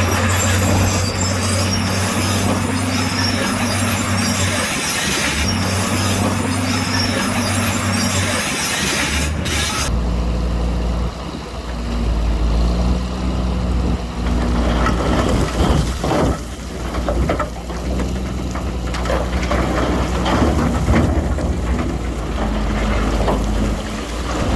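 Heavy diesel construction machinery running with a steady engine drone. It changes abruptly about ten seconds in to a deeper drone with scattered clanks and knocks.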